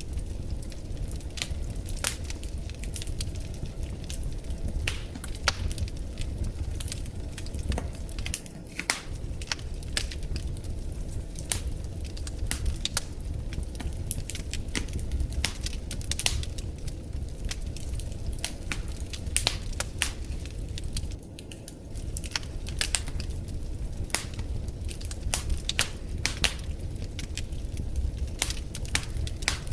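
Wood fire burning in a fireplace, crackling with many irregular sharp pops and snaps over a low steady rumble of the flames.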